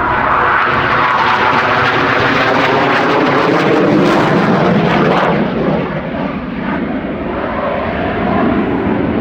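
Alenia Aermacchi M-346 Master jet trainer's twin turbofan engines at full display power as it flies past, a loud jet rush with sweeping shifts in pitch. The noise eases a little about five and a half seconds in, then builds again near the end.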